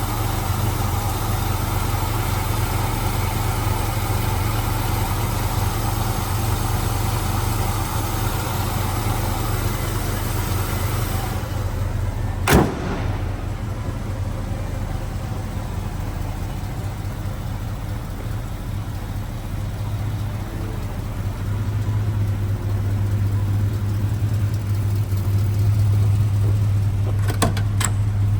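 Chevrolet 396 big-block V8 idling steadily in a 1969 El Camino Super Sport. There is one sharp click about twelve seconds in, and a few faint clicks near the end.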